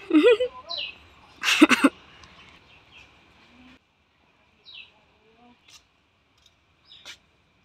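Small birds chirping: short, high, downward-sliding calls repeated every second or two. Brief vocal sounds come near the start, and the loudest is a short loud one about one and a half seconds in.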